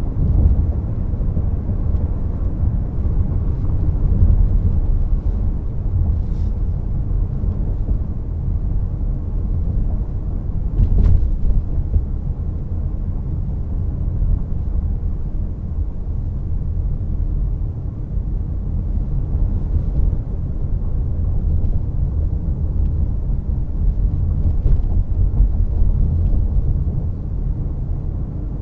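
Steady low road-and-tyre rumble of a Toyota C-HR 1.8 Hybrid on the move. A brief sharp knock comes about eleven seconds in.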